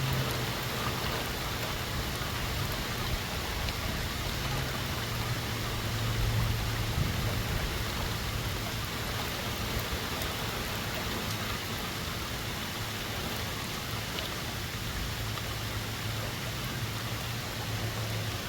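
Windstorm with rain making a steady, even hiss, while a low hum comes and goes, strongest at the start and again a few seconds in.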